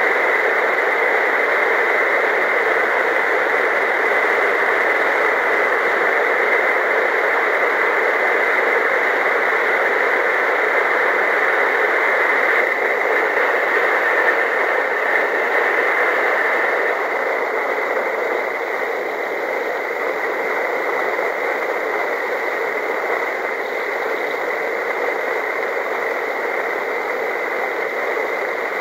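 Steady rush of wind over the microphone during a paramotor flight, a loud even hiss that eases slightly about two-thirds of the way through.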